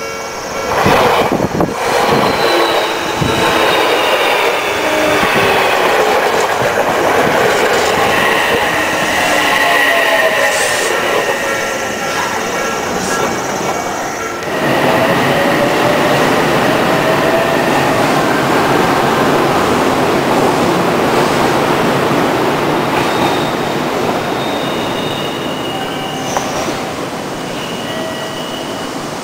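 Odakyu electric commuter train passing close by: wheels clack over the rail joints in the first couple of seconds, over running noise and a whine that slides in pitch. About halfway the sound changes abruptly to another stretch of steady train running noise, again with a whine gliding in pitch.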